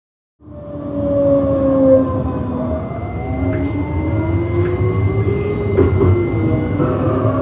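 Tram running on its rails, heard from on board: a steady low rumble with the electric traction drive's whine gliding up and down in pitch, a few sharp clicks, and a thin steady high tone coming in about three seconds in. The sound cuts in suddenly about half a second in.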